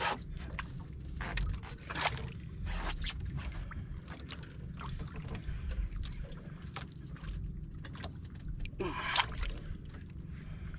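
Water sloshing against a small boat's hull over a steady low rumble, with scattered knocks and a louder splash about nine seconds in.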